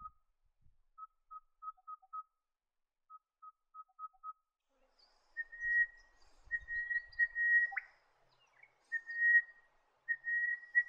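Crested bellbird calling: groups of four or five quick, evenly spaced notes on one pitch, each group ending in a couple of softer, lower notes. From about five seconds in come louder, drawn-out whistled notes at a higher pitch, broken twice by a sharp click.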